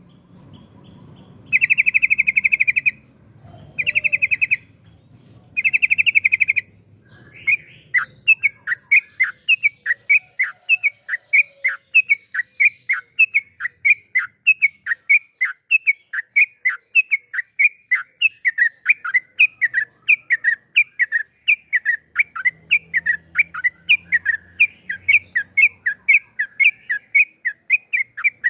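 Yellow-vented bulbul (trucukan) singing: three buzzy, trilled phrases in the first seven seconds, then a long unbroken run of quick, sharply falling notes, the bird's long rapid-fire song.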